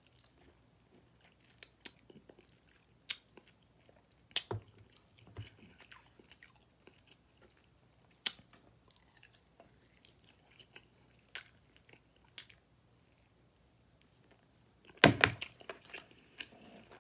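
Close-up chewing of saucy barbecue ribs, with scattered short wet clicks and smacks from the mouth. A louder run of bites and smacks comes near the end.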